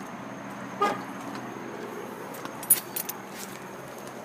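Jeep Wrangler JK's exhaust idling steadily through a Dynomax Race Bullet resonator, recorded close to the tailpipe tip. A few light metallic jingles come through about a second in and again near three seconds.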